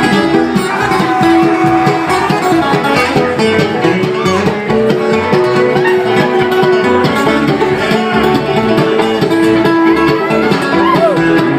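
A bluegrass band playing live, with picked acoustic guitar and banjo to the fore.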